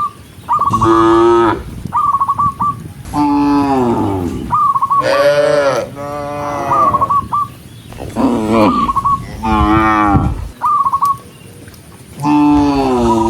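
A herd of cattle mooing: about seven moos of a second or so each, one after another with short gaps. Between them come quick runs of short high repeated notes.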